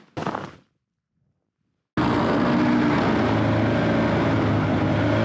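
Snowmobile engine running steadily, cutting in suddenly about two seconds in after a short noise and a moment of quiet.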